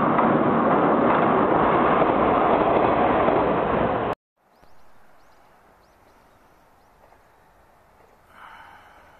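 Diesel railcar running across a steel girder railway bridge, a loud steady rumble that cuts off suddenly about four seconds in. Then faint outdoor background with a few short high chirps and a brief swell near the end.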